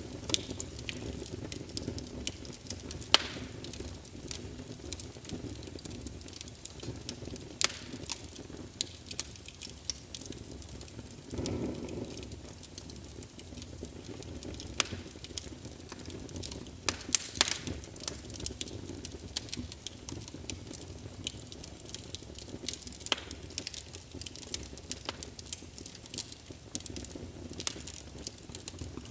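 Wood fire crackling in a fireplace: irregular sharp pops and snaps over a low, steady rush of flame, with a brief louder surge of the flame about twelve seconds in.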